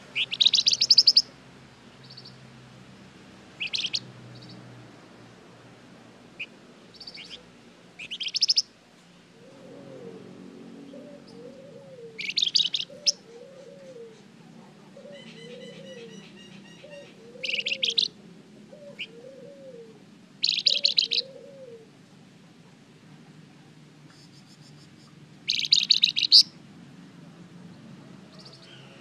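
Songbird sold as a 'flamboyan' in Indonesian bird-keeping, singing loud, rapid high-pitched chattering trills in bursts of about a second, repeated every few seconds. Through the middle a lower, softer note repeats about seven times, with a faint steady hum underneath.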